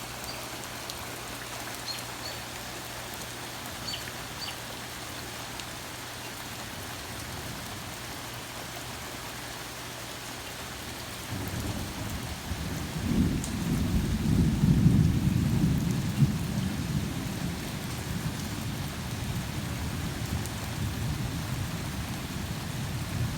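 Steady heavy rain, then about eleven seconds in a long rolling thunder rumble builds, loudest a few seconds later and still rumbling at the end.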